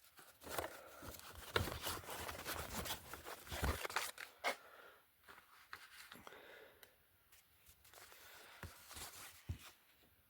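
Handling sounds in a small workshop: a run of knocks, clicks and rustling for about four seconds as parts are set down and moved, then only scattered light clicks.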